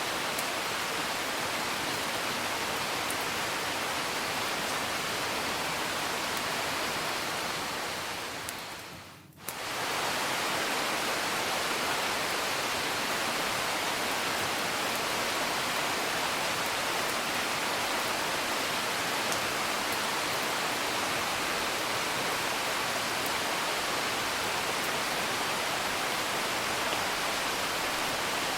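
Steady rain ambience with faint occasional crackle-like ticks, from a rain-and-fireplace sleep soundscape. About eight seconds in the whole sound fades down over a second and comes straight back, an edit or loop seam in the recording.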